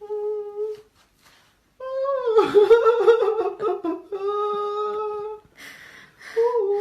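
A high voice held on long, mostly level notes, about four of them with short breaks, the longest one in the middle wavering in pitch.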